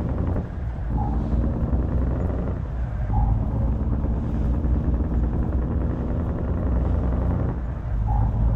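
Truck engine running with a steady low drone that dips briefly in level a few times.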